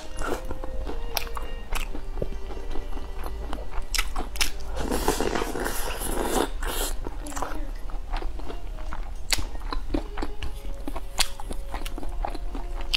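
Close-miked biting and chewing of pan-fried soup buns (shengjianbao), with many short, wet mouth clicks. There is a louder stretch of mouth noise about five seconds in.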